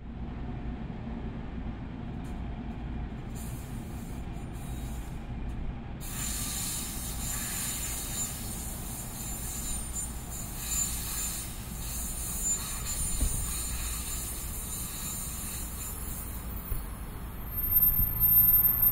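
A train rolling along the rails, a steady low rumble with faint high-pitched squealing from about six seconds in, growing louder near the end.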